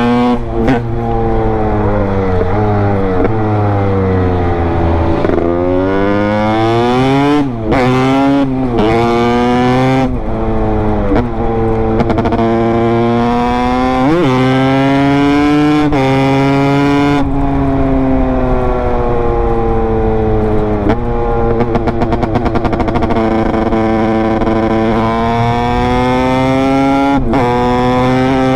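Honda CR250's single-cylinder two-stroke engine running under riding, its pitch falling and climbing repeatedly as the throttle is worked, with several brief sharp dips and re-rises along the way.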